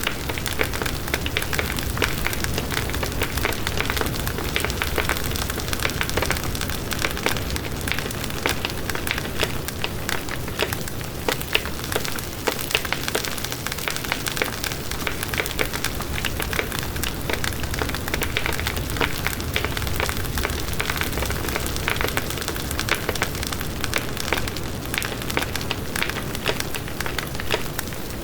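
Campfire burning, with a steady hiss of flames and dense, irregular crackling of the burning wood.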